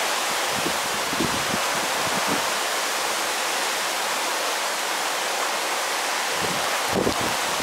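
Heavy downpour in a thunderstorm, a steady loud hiss of rain, with gusts of wind buffeting the microphone in the first couple of seconds and again about seven seconds in.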